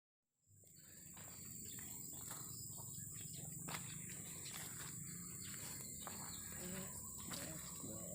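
Outdoor field ambience fading in about half a second in: a steady high insect buzz, like crickets, over a low rumble, with faint scattered clicks.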